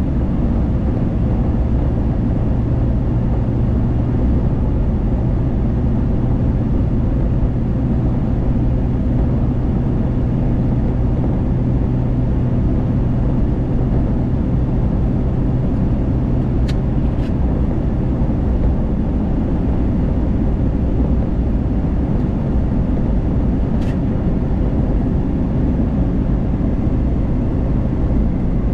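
Car driving at highway speed, heard from inside the cabin: a steady rumble of tyres and engine with a low hum that fades about two-thirds of the way through. A couple of faint ticks.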